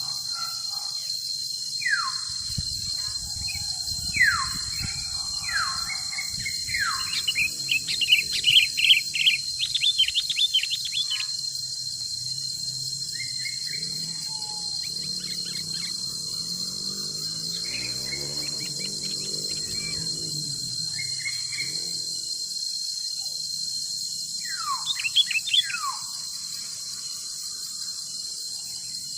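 Forest birds calling: repeated falling whistles and, about eight seconds in, a run of quick high notes. Under them runs a steady high-pitched drone of insects.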